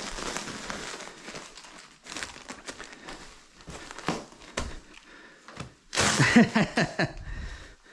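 Protective floor film and masking paper crinkling and rustling as they are handled and pressed down along the seams. The rustling is loudest about six seconds in, where a short pitched sound cuts through it.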